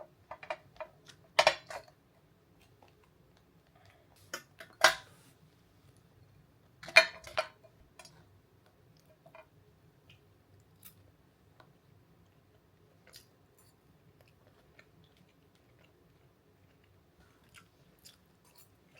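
Someone eating a meal: a spoon or fork clinks sharply against the dish three times in the first seven seconds, with smaller taps and soft chewing between, over a faint low hum.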